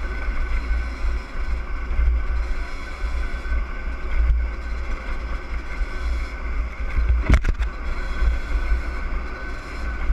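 Yamaha DT50R's 50 cc two-stroke single-cylinder engine running at a steady pitch while riding, under a heavy low rumble of wind on the microphone. A couple of sharp knocks come about seven seconds in.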